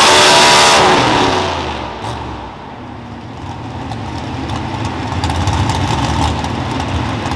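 Modified 4x4 pulling truck's engine at full throttle, dropping off sharply about a second in, then a lower engine rumble that builds again toward the end.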